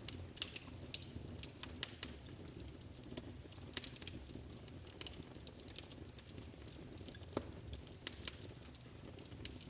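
Wood fire crackling in a fireplace: irregular sharp pops and snaps over a faint low hiss of the flames.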